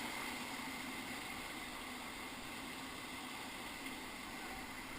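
Low, steady rush of moving river water, with no distinct splashes.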